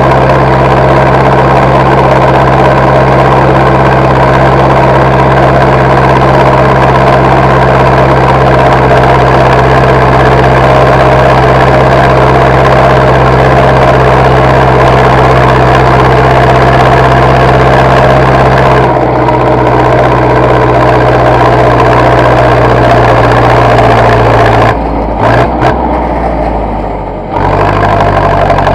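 Zetor tractor diesel engine running steadily. A few seconds from the end the sound dips and breaks up briefly, then settles into a steady run at a lower pitch.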